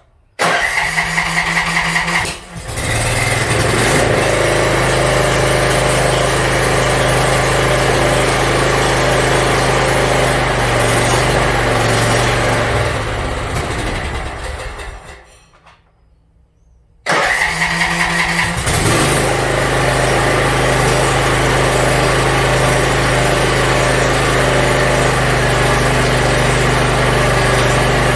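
Riding mower's new electric starter cranks the small engine, which catches and runs steadily, then winds down and stops. After about two seconds of quiet it is cranked again, catches quickly and runs steadily to the end. This is the mower starting now that its carburetor has been cleaned.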